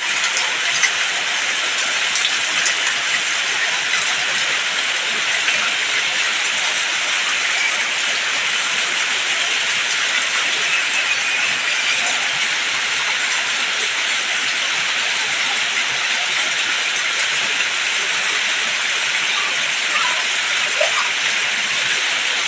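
Steady heavy rain falling, an even hiss that does not let up.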